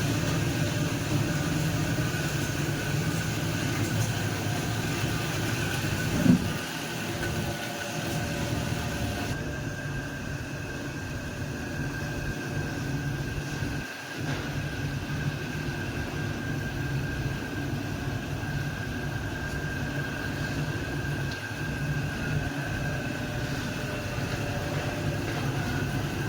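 Aluminium flat-bar cutting machine running: a steady high whine over a low hum, with one short louder burst about six seconds in.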